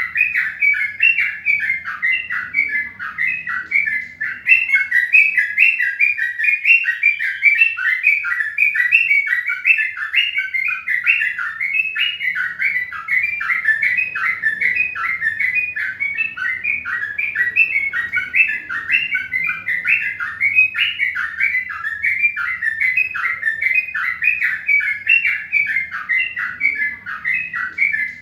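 Birds chirping without a break: a dense stream of short, rapid, overlapping chirps, several a second.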